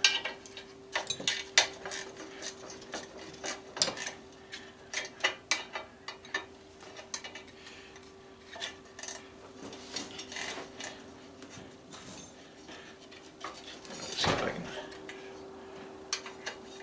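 Irregular metal clinks and clicks of hand tools as a wrench is fitted and worked on a bolt of an old belt/disc sander, with a louder scraping clatter near the end and a steady faint hum underneath.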